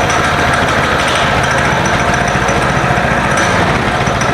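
Small gasoline engine running steadily just after being started. Its low hum evens out near the end.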